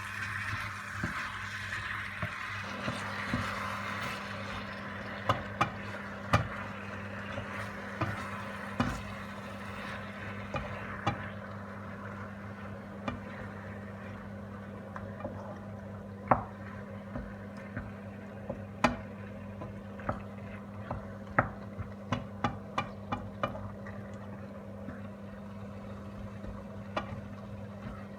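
Chicken sizzling in a pan while a cooking utensil knocks and scrapes against the pan as it is stirred. The sizzle fades within the first few seconds, and the sharp, irregular knocks continue, coming thickest in the last third. A steady low hum runs underneath.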